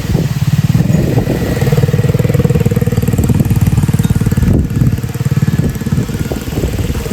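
A mini bike's small engine running at a steady speed under throttle, with a brief dip about four and a half seconds in.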